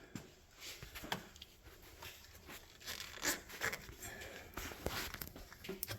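Rustling and scattered small clicks and knocks of electrical wiring and plastic connectors being handled, irregular throughout with a slightly louder cluster a little past halfway.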